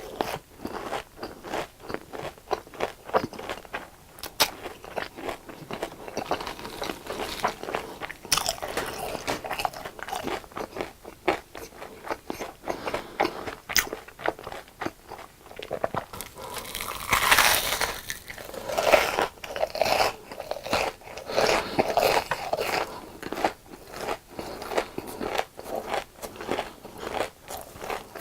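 Close-miked mukbang eating: a person biting and chewing crunchy fried food, a dense run of crisp crunches throughout, with a louder burst of crunching about 17 seconds in.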